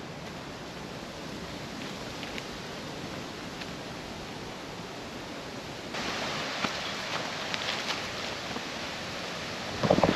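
Steady outdoor hiss of wind moving through woodland. From about six seconds in it turns brighter, with light rustling and ticks, and a louder rustle comes near the end.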